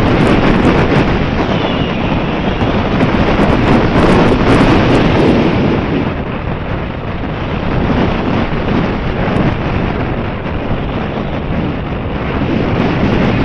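Strong wind buffeting the microphone: a loud, continuous rumbling roar that swells and eases slightly.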